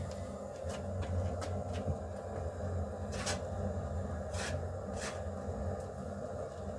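Kindling crackling and snapping as a first fire catches in a newly built brick fireplace, a handful of sharp snaps over a steady low rumble.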